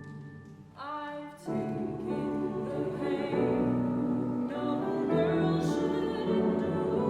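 Choir singing with instrumental accompaniment. A soft held chord fades away, then the choir comes in fuller and louder about a second and a half in.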